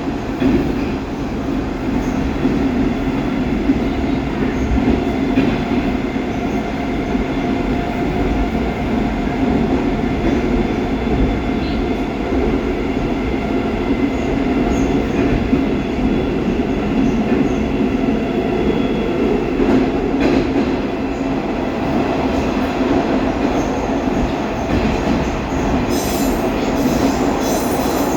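Baltiets metro train running at speed through the tunnel, heard from inside the car: a steady rumble of wheels on rail with a droning hum. About two seconds before the end a higher squeal or hiss comes in.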